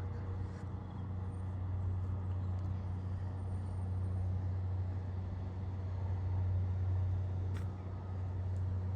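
A steady low engine drone over a haze of outdoor noise, with one brief click about seven and a half seconds in.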